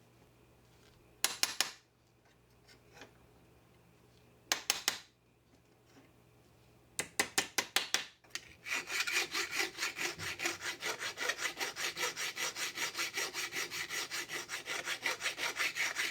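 Hand abrading strokes, rubbing and scraping back and forth in quick, even strokes. There are three short bursts of a few strokes each, then a steady run at about five strokes a second from about nine seconds in.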